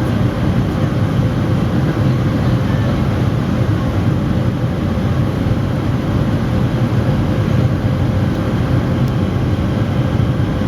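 Boeing 737 cabin noise during takeoff: the jet engines and rushing air make a steady, even noise, heaviest in a low rumble, with a faint steady hum.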